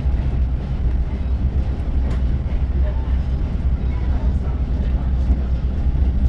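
Steady low rumble of a moving passenger train, heard from on board, with a faint click about two seconds in.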